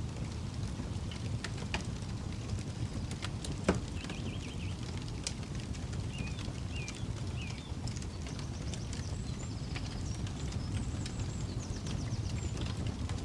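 Wood campfire crackling, with scattered sharp pops (one louder about four seconds in) over a steady low rumble.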